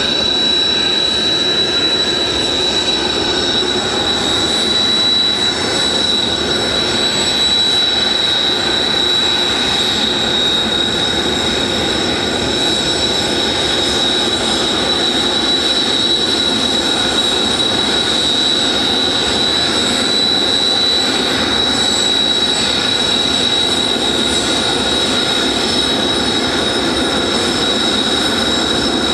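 Kawasaki T-4 jet trainers' turbofan engines running steadily on the ground: a loud, constant rush with a high, unchanging whine.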